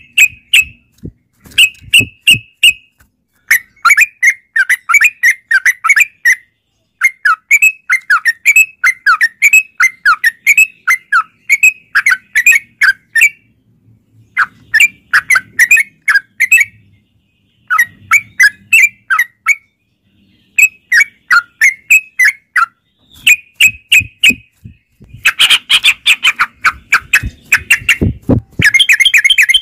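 Yellow-vented bulbul song: loud bouts of quick, bubbly warbled notes, each bout a few seconds long with short pauses between them, and a denser, busier stretch near the end.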